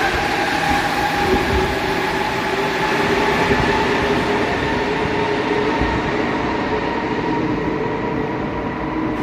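Santiago Metro NS-16 train running past, its motors giving a steady whine of several tones over a loud rumble.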